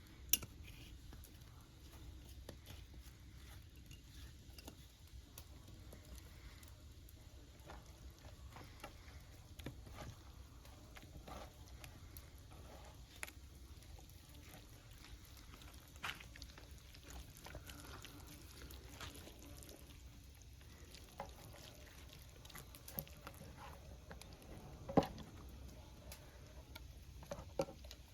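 Scattered light clicks and taps, a few louder near the end, over a low steady rumble.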